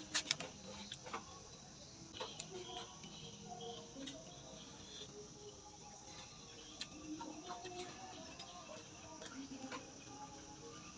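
Faint close-up eating sounds: chewing with scattered sharp clicks and wet smacks, the loudest just after the start, as boiled shrimp and raw vegetables are eaten.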